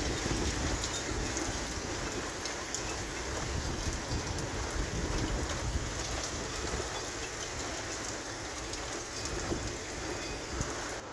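Heavy thunderstorm rain falling steadily, a dense hiss with scattered drop ticks and a low rumble underneath.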